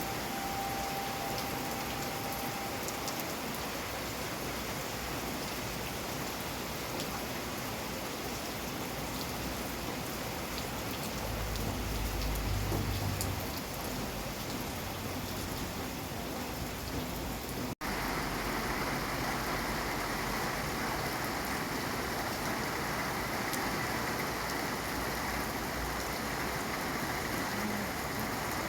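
Steady rain falling, with a low rumble about eleven to thirteen seconds in. About two-thirds of the way through, the sound cuts out for an instant, then the rain resumes with a slightly different texture, as at a splice between recordings.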